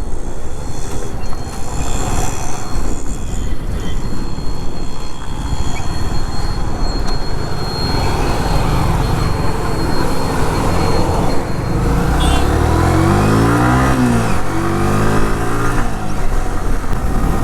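Motorcycle engine running under way, with wind rushing over the microphone; about twelve seconds in, the engine note rises and falls twice as the throttle is worked.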